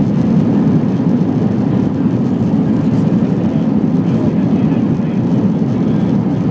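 Airbus A320 airliner landing: a loud, steady rumble that holds even without any sudden events.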